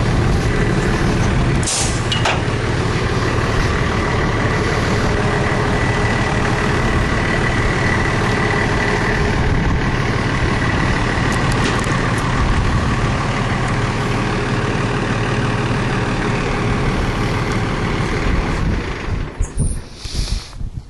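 Fire engine's engine running steadily, with a faint steady whine over the rumble and a short hiss about two seconds in. The engine sound drops away near the end.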